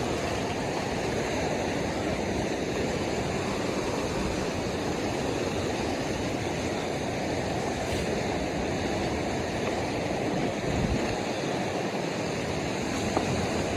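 Ocean surf washing steadily on the shore, a continuous rushing noise.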